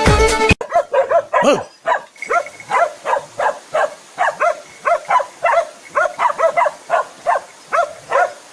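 An animal giving short, evenly repeated calls, about three a second, after a brief end of music that cuts off suddenly about half a second in.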